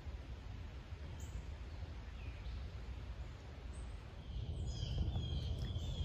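Birds calling in woodland: a faint chirp or two, then a run of short falling high notes near the end, over a steady low rumble.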